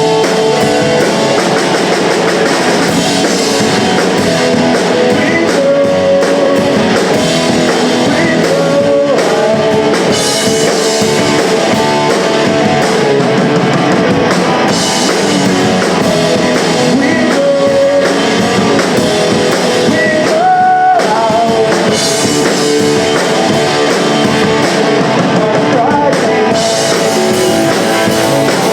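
Punk rock band playing live: loud distorted electric guitars and a drum kit, with singing.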